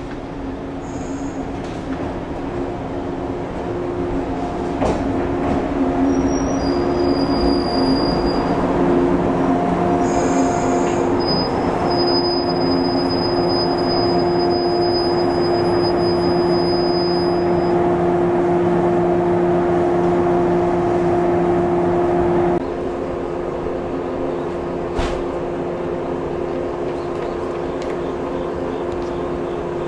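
Shinano Railway 115-series electric train close by at the platform, getting louder over the first few seconds, with a steady hum and a high-pitched wheel or brake squeal lasting about ten seconds. The hum cuts off suddenly a little over twenty seconds in and the level drops.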